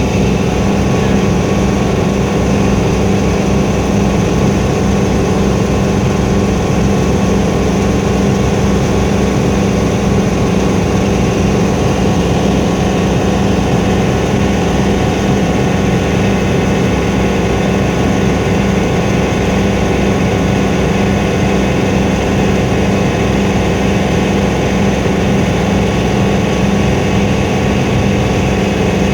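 Helicopter engine and rotor running steadily, heard from inside the cabin as a loud, even drone with a strong low hum.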